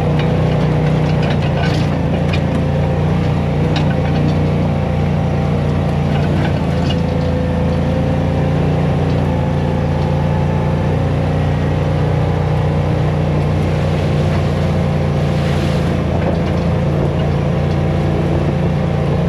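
A vehicle engine running steadily under way at an even pitch, with a few faint rattles.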